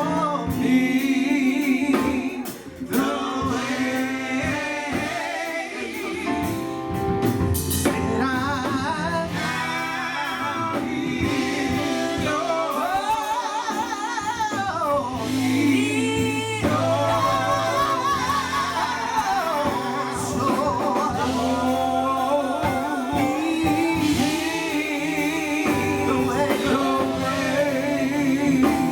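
Gospel group singing live, with voices holding wavering, sustained notes over instrumental backing.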